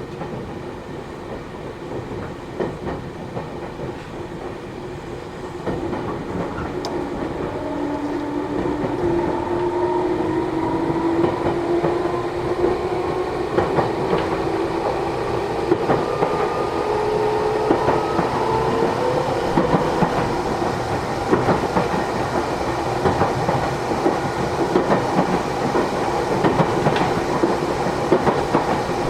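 Matsumoto Electric Railway 3000 series electric train heard from inside the car, accelerating: the traction motor whine rises in pitch from about six seconds in, over steady running noise and repeated clacks of the wheels over rail joints.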